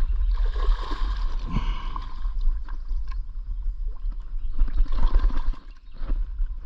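Water splashing and gurgling as a hooked bass thrashes at the surface while being landed, with small knocks of handling among the splashes.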